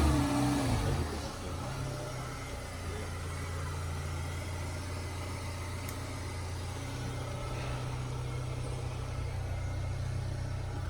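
Renault car's petrol engine idling steadily, a little louder in the first second before settling to an even hum.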